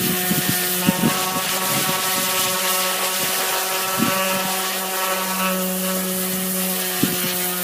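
Electric power sander running steadily against a fiberglass boat hull with a constant motor hum and a grinding hiss, with a few short knocks of the tool against the hull.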